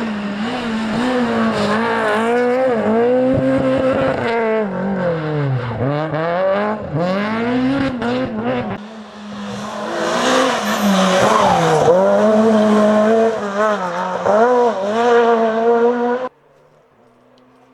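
Renault Clio R3 rally car's engine revving hard through the gears, its pitch climbing and dropping with each shift, and sweeping down on downshifts about five seconds in. From about ten seconds a loud hiss of tyres rides over the engine. The sound cuts off abruptly near the end.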